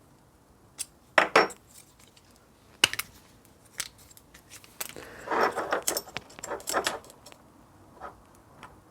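Small steel tools clinking and clattering in short irregular bursts as a thread tap and bolt are handled, with a longer run of metallic rattling between about five and seven seconds in.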